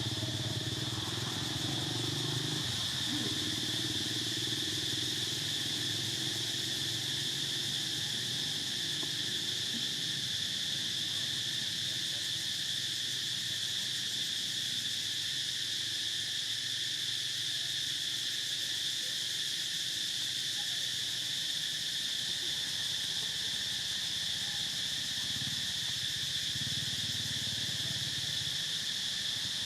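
Steady, unbroken chorus of insects, crickets or cicadas, holding one high pitch throughout, with a low hum dying away about three seconds in.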